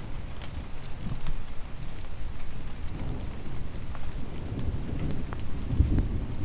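Steady rain with scattered drop ticks over a low rumble that swells near the end.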